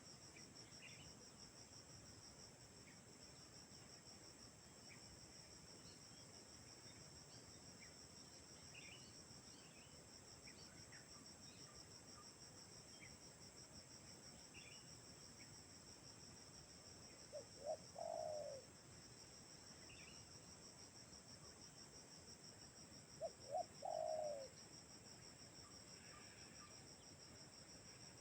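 Spotted dove (tekukur) cooing twice, about six seconds apart, each call a couple of short notes followed by a longer one. A steady high insect trill runs underneath.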